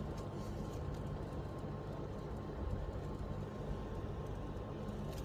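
A steady low background hum with a faint high tone and a few light ticks.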